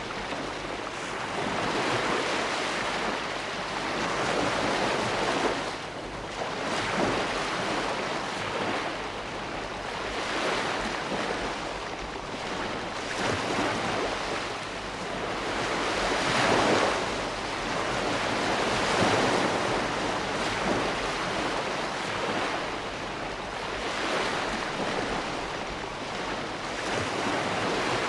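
Ocean waves breaking and washing up on shore in a continuous hiss of surf, surging every few seconds as each wave breaks.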